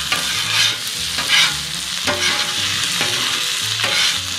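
Food frying on a grill, a steady sizzle with a stirring, scraping stroke through it about once a second.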